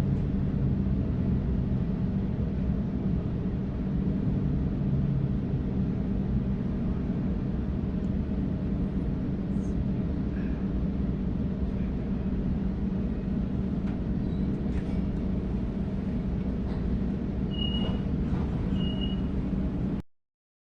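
Steady rumble inside a Sydney Trains Waratah electric train carriage, with a low hum under it. Two short high beeps sound near the end, and the sound then cuts off suddenly.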